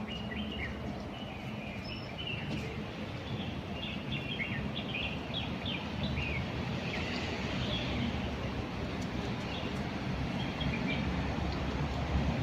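Small birds chirping in quick short notes, busiest in the first half, over a steady low rumble of road traffic that grows louder near the end.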